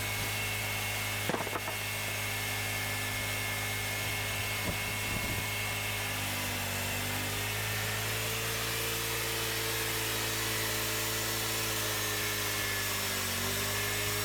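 Cooks 3238 hydraulic bandsaw mill running steadily while cutting a cherry log, with a few light knocks about a second in and again around five seconds. Some of its tones shift slightly in pitch from about six seconds in.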